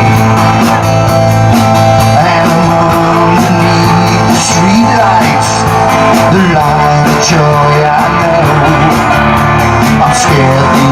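Live rock band playing, with guitar to the fore over a steady beat.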